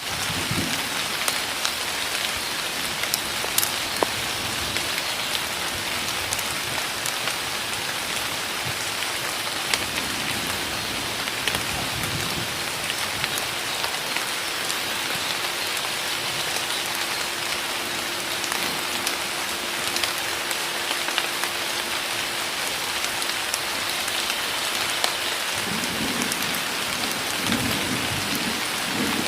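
Heavy rain pouring down in a forest: a dense, steady hiss full of individual drop taps. A low rumble comes in near the end.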